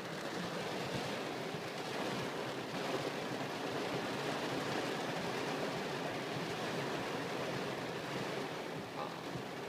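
Torrential rain pounding on a car's roof and windshield, heard from inside the cabin as a steady, dense hiss.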